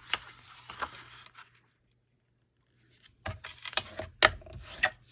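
Paper and craft tools being handled on a table: scattered sharp clicks and taps, then after a second and a half of dead silence a quicker run of clicks and knocks, the loudest about four seconds in.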